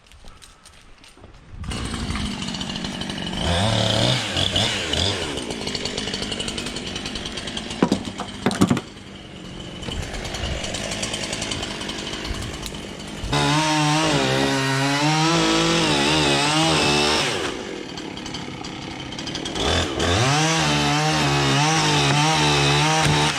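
Gas chainsaw starting up about two seconds in and cutting through an oak trunk under heavy tension. Its engine speeds up and slows again several times, with two sharp cracks a little over a third of the way in and long full-throttle stretches in the second half.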